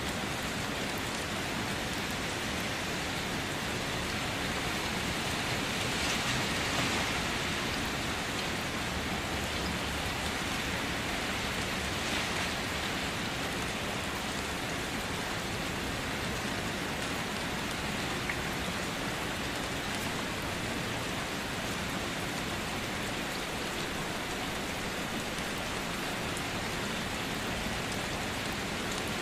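Steady rain falling, swelling slightly about six seconds in.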